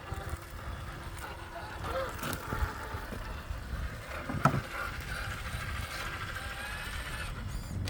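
Electric motor and gears of an Axial SCX6 Honcho RC rock crawler whining faintly as it crawls over rocks, with a couple of knocks, the sharpest about four and a half seconds in, and a low wind rumble on the microphone.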